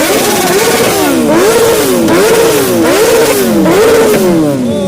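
Superbike engine revved in a quick series of throttle blips, about six, its pitch rising and falling with each one, before dropping back toward idle near the end.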